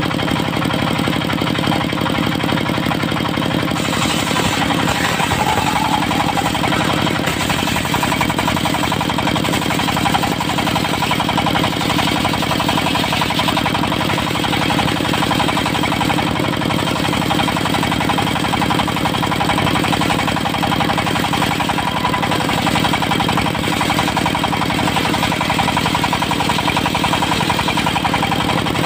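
Diesel-driven mobile circular-saw sawmill running steadily, its blade sawing trembesi (rain tree) wood into thin boards. The sound turns a little brighter and harsher about four seconds in.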